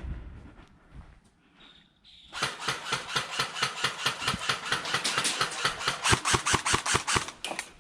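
Airsoft electric M4 rifle firing a long full-auto burst, a fast run of sharp clicks with the gearbox motor buzzing, starting about two seconds in and briefly pausing near the end.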